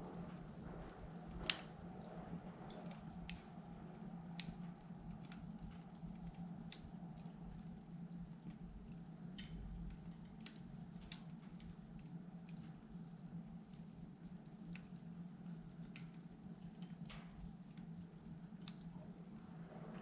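Wood fire crackling in a wood-burning stove, with irregular sharp pops and snaps, the loudest about a second and a half in and again near four and a half seconds, over a low steady hum.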